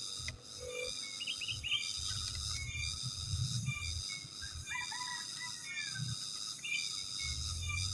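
Sooty-headed bulbul calling in short chirping phrases, several times, over a steady chorus of insects, with a low rumble at times.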